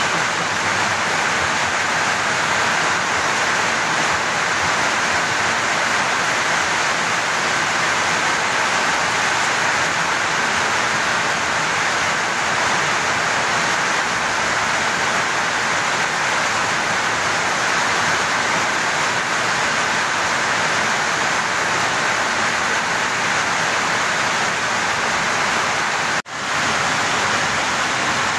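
Steady rain falling, an even hiss that briefly cuts out near the end.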